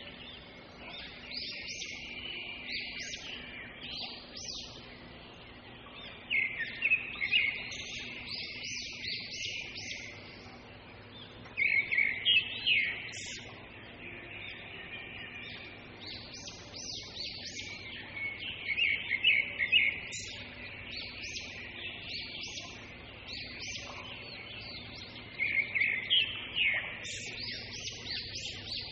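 A songbird singing in repeated bouts of quick, high chirping notes, the loudest bouts coming about every six seconds, over a faint steady hum.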